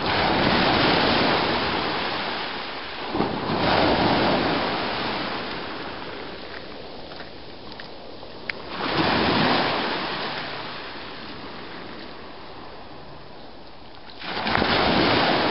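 Ocean waves breaking and washing up the beach in four surges, each building quickly and then fading away over a few seconds.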